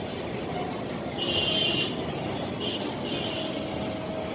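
A train running through the station with a steady low rumble, its wheels squealing shrilly on the rails in three short bursts starting about a second in.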